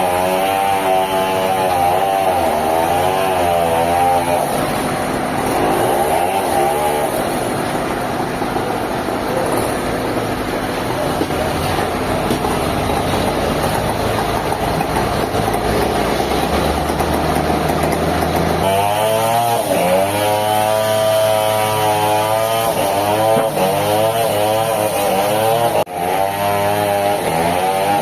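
Sawmill machinery driven by an engine, running loudly with its pitch wavering up and down as the load changes. A steadier, noisier stretch comes in the middle, and the wavering pitch returns later.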